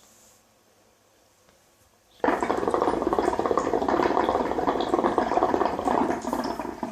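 Hookah water bubbling loudly as someone takes one long draw. It starts abruptly about two seconds in and cuts off sharply near the end.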